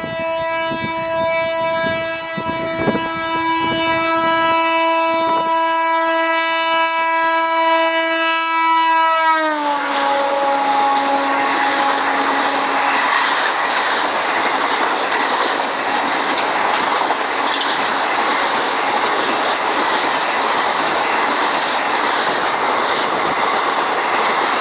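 A WCAM-2 electric locomotive's horn sounded in one long steady blast as the express approaches at speed. About nine and a half seconds in the locomotive passes, the horn drops in pitch and dies away a few seconds later. After that comes the steady rush and clatter of passenger coaches running past at speed.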